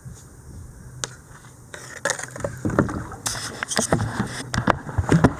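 Kayak being paddled on a creek: quiet at first, then from about two seconds in a busy run of splashes and sharp knocks from the paddle and water against the boat.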